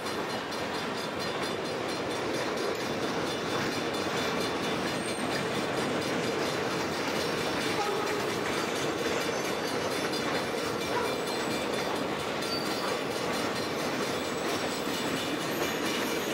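Freight train cars rolling steadily past a grade crossing close by.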